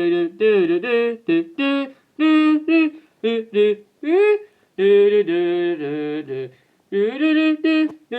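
Two voices humming or singing a wordless tune together in short and held notes, with brief gaps between phrases.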